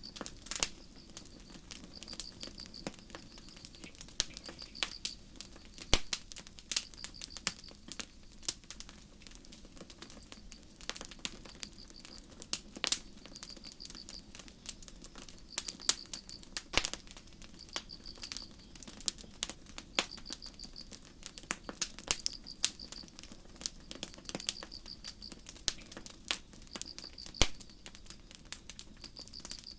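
Campfire crackling with irregular sharp pops of varying loudness, over crickets chirping in short high-pitched pulses about once a second.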